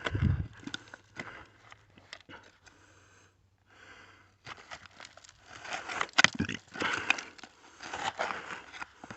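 Digging by hand in soil full of broken glass: a low thump at the start, scattered scrapes and clicks, then busy scraping and crunching in the second half.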